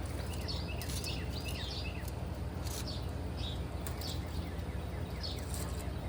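Birds chirping in short calls over a steady low mechanical hum.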